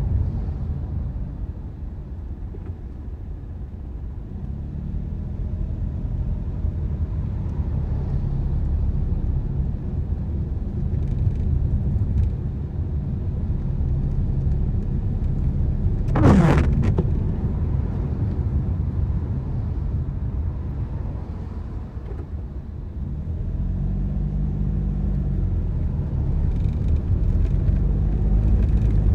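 Car driving on wet roads: a steady low rumble of engine and tyres, with the engine note rising and falling with speed a couple of times. About halfway through comes a brief loud swish that falls quickly in pitch.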